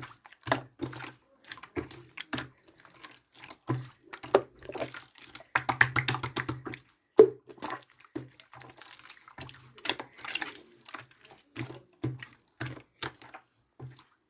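Red glitter slime being squished and pressed by hand, making an irregular run of wet clicks, pops and squelches, with denser crackling stretches about six and ten seconds in.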